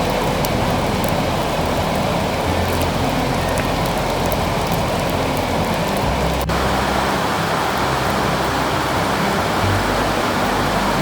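Heavy rain pouring down steadily, an even hiss of rain on surfaces. Background music with low bass notes runs underneath, and there is a single sharp click about six and a half seconds in.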